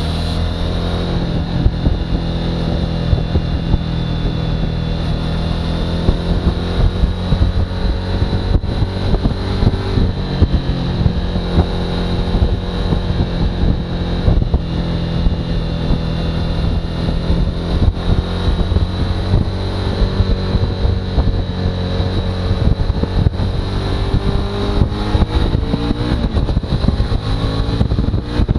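Suzuki V-Strom's V-twin engine running at a steady road speed, heard from on the bike, with a steady high-pitched whine over the engine hum.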